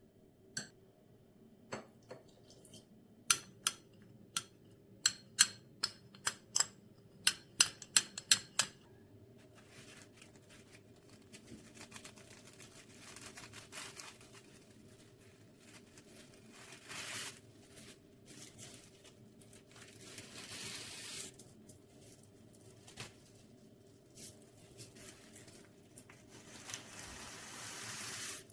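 Sharp clicks and taps in quick succession for the first nine seconds or so, some with a slight ring, then irregular rustling and crinkling that swells up a few times.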